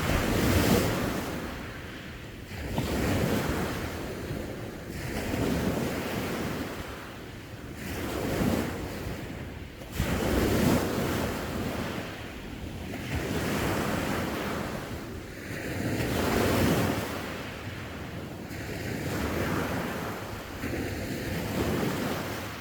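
Ocean waves breaking and washing on the shore, surging and fading every two to three seconds, with wind on the microphone.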